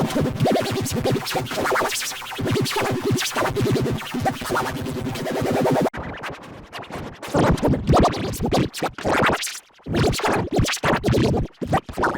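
Digitally mangled cartoon audio: rapidly stuttered, vocoded and pitch-warped sound that comes across like DJ scratching. There is an abrupt cut about six seconds in, and after it the sound turns choppier, starting and stopping in short bursts.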